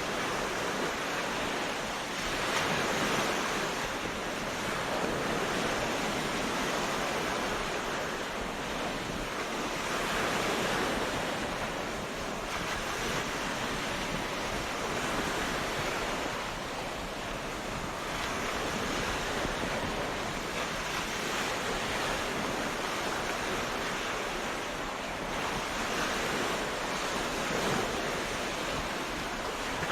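Ocean waves breaking on a beach, the surf swelling and easing every few seconds in a steady wash.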